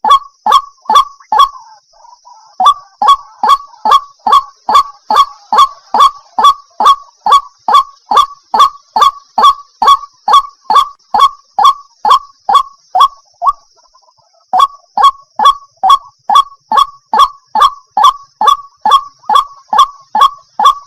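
Waterhen (jal murgi) calling: a fast, even series of short downward-sliding notes, about three a second, breaking off briefly about two seconds in and again about two-thirds of the way through.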